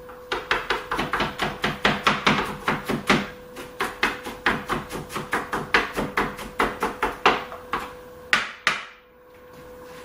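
Chef's knife chopping an onion on a wooden cutting board: quick, even strokes, about four or five a second, then two longer strokes near the end, over a faint steady hum.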